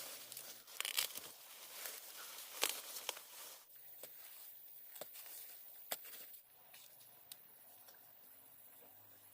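Crinkling, rustling and tearing with sharp snaps, busiest over the first few seconds, then fainter with scattered clicks.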